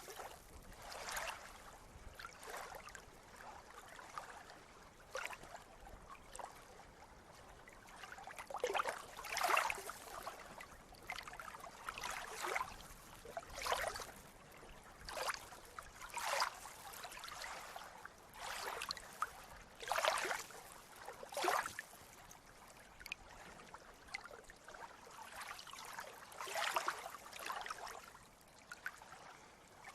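Sea water lapping and splashing in short, irregular bursts, about one every second or two, over a faint steady wash.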